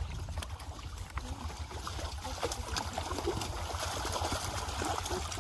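Water splashing and sloshing, getting louder about two seconds in, with scattered small knocks over a steady low rumble.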